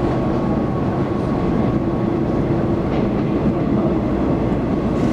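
Taiwan Railways local electric multiple-unit train running, heard from inside the passenger car: a steady rumble of wheels on rail with a faint steady high tone over it.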